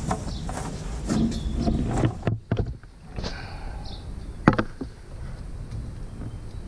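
Scattered knocks and clanks of tools and metal being handled over a low steady hum, with no cutting wheel running.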